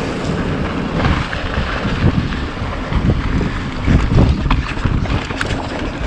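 Wind buffeting an action camera's microphone as a steady rush, with uneven low thuds and a few sharp clicks through it.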